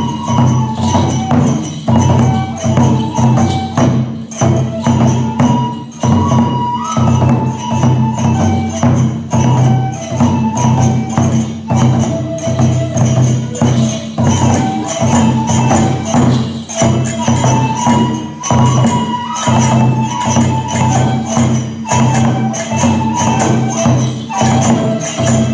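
Kagura music: a fast, steady pattern of drum beats and clashing hand cymbals under a high, held melody line, typical of a Japanese kagura flute.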